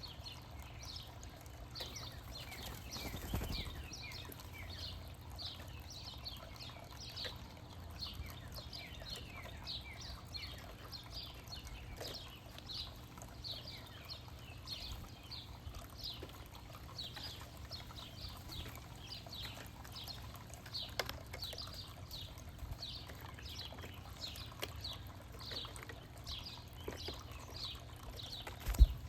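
Small birds chirping: a steady stream of short, high, falling notes, several a second and overlapping. A single sharp thump near the end is the loudest sound.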